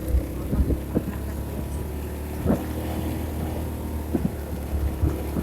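A vehicle engine running steadily at a low, even pitch, with wind on the microphone and several short knocks along the way.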